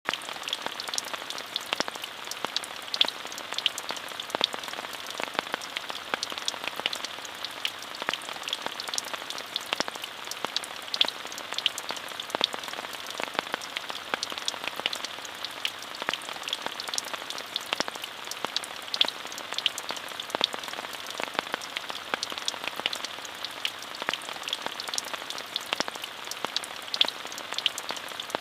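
Steady rain falling on a surface, a constant hiss dotted with the sharp ticks of individual drops hitting close by.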